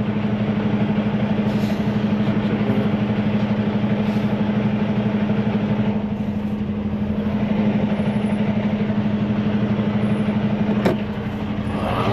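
Semi-truck's diesel engine idling steadily, heard from the cab, with a single sharp click near the end.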